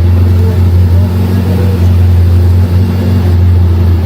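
An engine running steadily at a constant speed, giving a loud, low, even drone.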